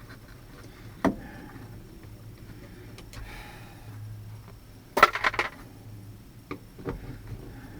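Small metal tools and parts being handled and knocked together: a sharp tap about a second in, a louder rattling clatter around five seconds in, then a few light clicks.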